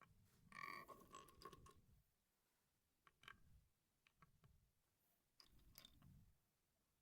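Faint clicks and rustling of LEGO pieces being handled during a build, with a louder rustle about a second in.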